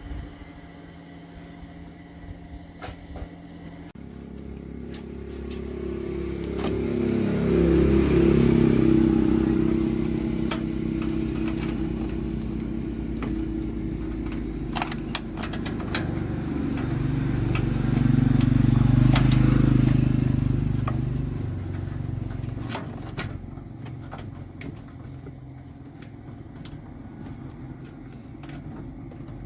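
A machine motor running, with scattered clicks and knocks. It starts about four seconds in, speeds up to a loud peak, eases off, builds to a second peak, then winds down near the end.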